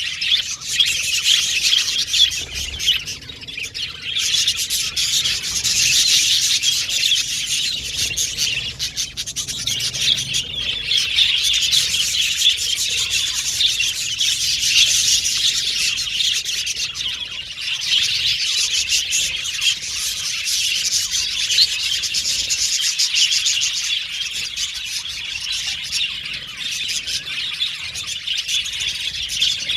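A flock of budgerigars chirping and chattering continuously, many birds calling over one another at once.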